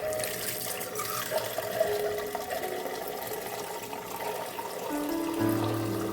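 Water running from a tap into a sink.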